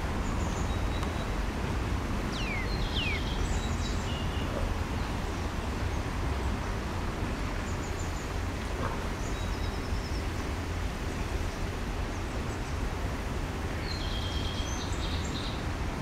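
Scattered high bird calls: two quick falling whistles a couple of seconds in, a few short chirps, and a brief run of repeated notes near the end, over a steady low rumble.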